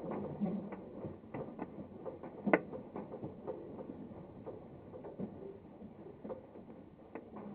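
Glider cockpit rattling and creaking during aerotow in turbulence: irregular clicks and knocks, with one sharper knock about two and a half seconds in, over a faint rush of airflow.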